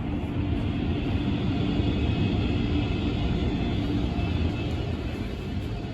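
Car wash tunnel dryer blowers running: a steady roar with a low hum and a faint high whine, swelling about half a second in and easing a little near the end.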